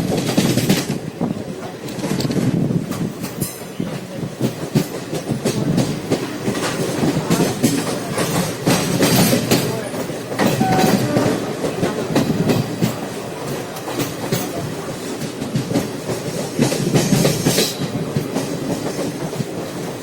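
Passenger train running at speed: a steady rumble with wheels clattering over rail joints in quick clicks, and brief louder rushes of hiss near the start and near the end.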